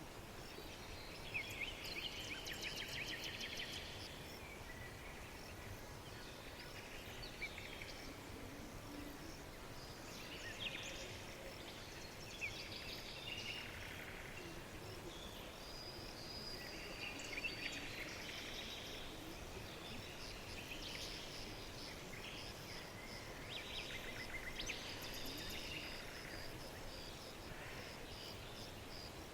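Small songbirds singing and chirping, in overlapping bursts of high chirps and fast trills, over a faint steady background.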